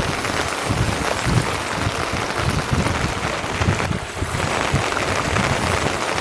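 Steady rain falling, an even hiss with irregular low rumbles underneath.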